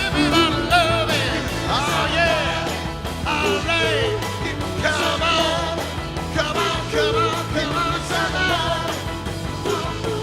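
Pop vocal group singing an upbeat rock and roll number in harmony over a band backing, several voices with wavering sustained notes.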